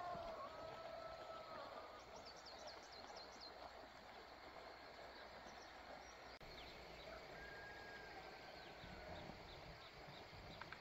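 Faint outdoor background noise with scattered short animal calls: quick high chirps and a few brief held tones.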